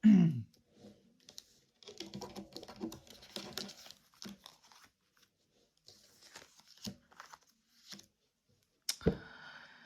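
Tarot cards being handled and drawn from the deck: soft, scattered rustling of the cards with small clicks, and a sharper snap of a card about nine seconds in.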